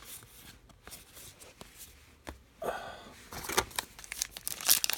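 Quiet handling of cards, then a trading-card pack wrapper crinkling and tearing open, with loud crackling crinkles in the last two seconds.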